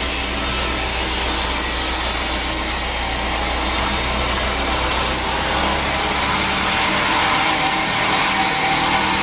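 Sawmill saw cutting through a teak log, a loud steady rasping hiss. A little over five seconds in, the top of the hiss falls away and a steadier machine hum with a held tone takes over.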